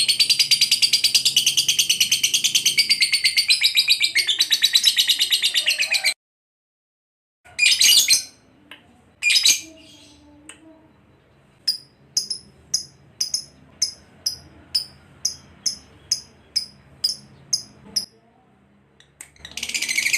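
Lovebird's long, rapid chattering song (the 'ngekek' that fanciers train for), cut off suddenly about six seconds in. After a short silence come two loud chirps, then a run of about a dozen short, sharp chirps at roughly two a second. The chattering starts again near the end.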